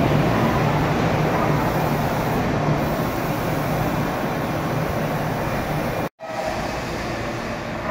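Meitetsu electric train running out along an underground station platform: a steady rumble of wheels and motors that slowly fades. The sound cuts out for a moment about six seconds in and comes back quieter.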